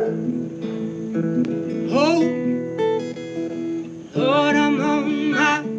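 Live acoustic band music: acoustic guitar strumming, with a voice singing in phrases, about two seconds in and again from about four seconds in.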